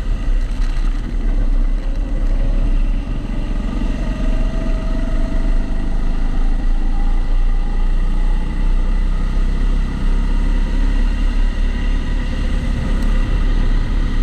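Onboard sound of a Kombikart Eco kart driving on a wet track, its motor note rising as it accelerates in the middle of the stretch. It runs over a heavy, constant low rumble from the camera's waterproof housing.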